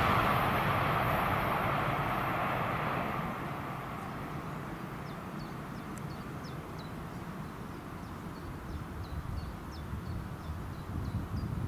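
Southeastern Class 395 'Javelin' high-speed electric train running away into the distance, its rushing noise fading over the first few seconds. From about five seconds in, a small bird repeats short, high, falling chirps.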